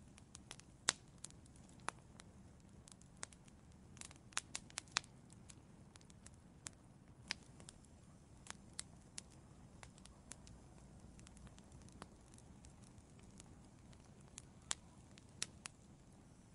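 Burning firewood in an outdoor fireplace crackling: irregular sharp pops and snaps over a faint low hiss, with a quick cluster of pops about four seconds in.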